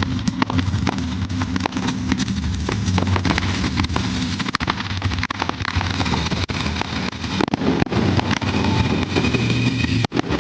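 Fireworks display: rapid crackling and popping bursts over a continuous low rumble.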